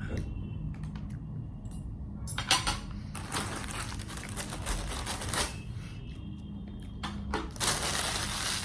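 Rustling and light clatter of breakfast dishes and food being handled, in three spells of a second or two each, over a low steady room hum.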